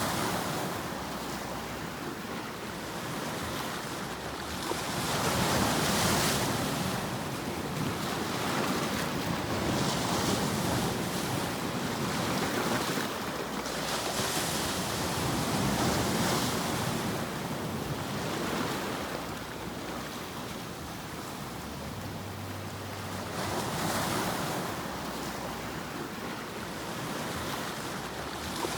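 Continuous rushing surf noise that swells and eases every few seconds, like waves washing in and drawing back, used as a steady sleep sound.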